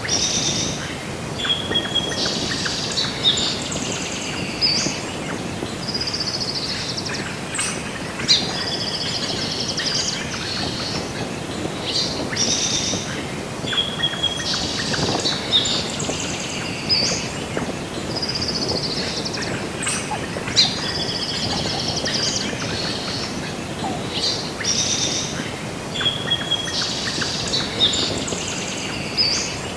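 Several songbirds chirping and trilling over a steady background hiss, with the same run of phrases recurring about every twelve seconds, like a looped nature ambience track.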